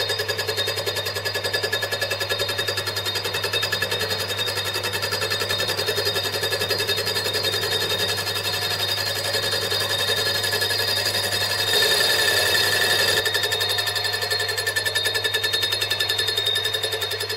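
A power tool or machine running steadily with a fast, even chattering pulse and a steady hum, briefly louder about twelve seconds in.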